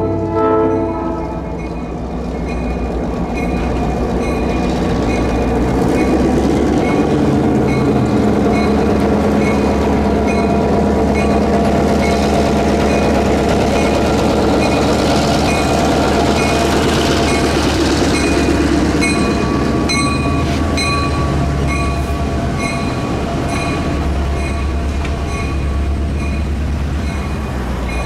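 A diesel-hauled passenger train passing. A locomotive air horn's chord, a Nathan P3, drops in pitch and ends in the first second. Then the diesel engine runs and the cars roll by, with regular wheel clicks over rail joints in the second half.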